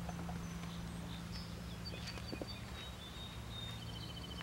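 Birds calling: short high whistled notes, then near the end a fast trill of evenly repeated notes. A steady low hum runs underneath, with a few faint clicks.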